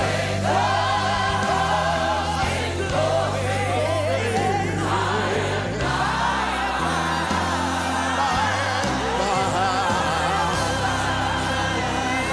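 Gospel quartet song: several voices singing in harmony with vibrato over a steady bass line that moves from note to note every second or two.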